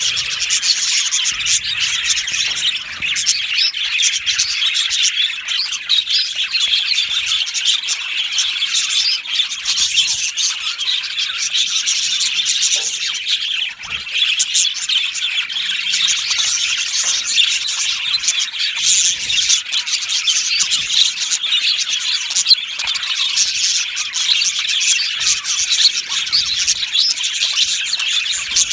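A flock of budgerigars chirping and chattering together, a dense overlapping twitter that never stops.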